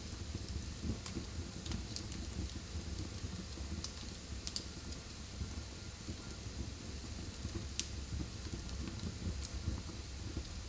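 Wood fire burning in a fireplace: a steady low rumble and hiss, with scattered crackles and pops, the sharpest about a second and a half in, at about four and a half seconds, and near eight seconds.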